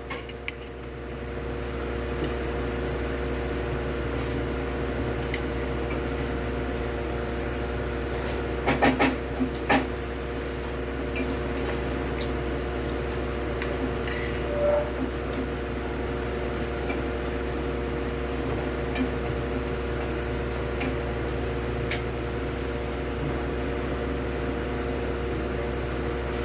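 A steady mechanical hum, with a few clinks of cutlery against dishes: a small cluster about nine seconds in, then single clinks later.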